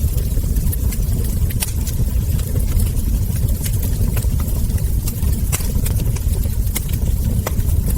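Wood fire crackling, with sharp, irregular pops scattered over a steady low rumble.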